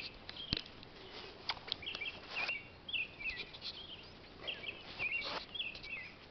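Small birds chirping outdoors: short, high, hooked chirps repeating every half second or so. Brief rustles come through now and then, the loudest about two and a half and five seconds in.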